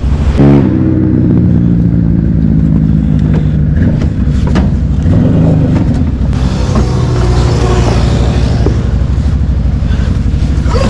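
A vehicle engine runs steadily throughout. It gives a sharp, loud rev about half a second in, and its pitch drifts up and down after that.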